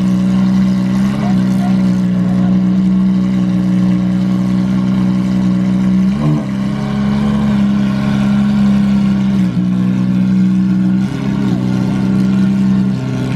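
Car engine running at a steady engine speed, a loud even drone whose pitch dips briefly a few times, as in lifting off or shifting, before settling again.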